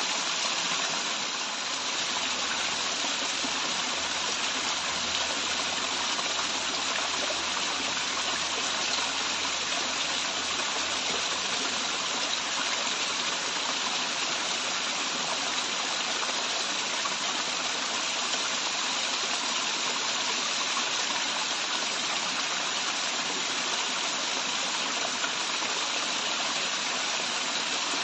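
Running water pouring from a waterfall: a steady, even rush that holds without a break.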